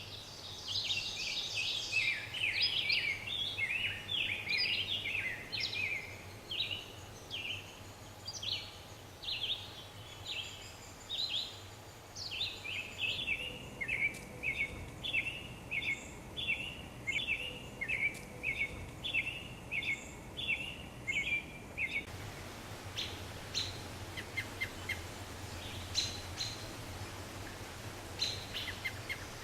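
A bird singing a long, steady series of short chirps, about one and a half a second, then only a few scattered fainter chirps for the last several seconds.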